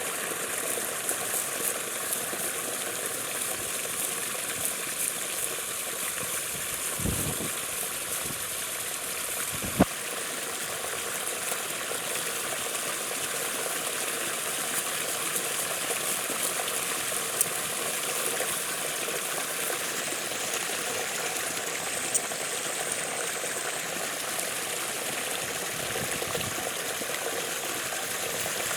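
Floodwater rushing steadily, with a few sharp knocks, the loudest about ten seconds in.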